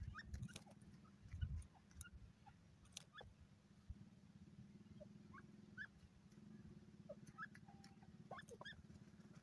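Near silence: faint, scattered short rising bird chirps over a low steady hum.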